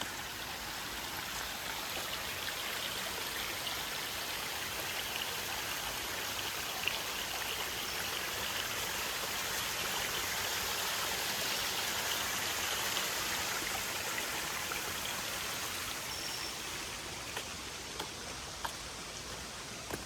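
Running stream water rushing steadily, growing louder toward the middle and easing off near the end, with a few faint clicks.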